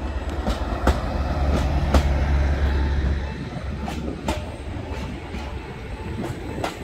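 Greater Anglia Class 755 multiple unit passing over a level crossing: a heavy low rumble that eases after about three seconds, with sharp wheel clicks over the rails as the last cars go by.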